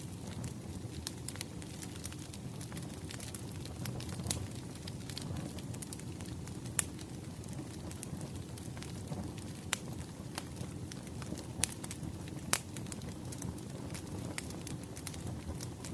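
Wood fire crackling: irregular small pops and snaps over a steady low rumble, with a few sharper pops in the second half.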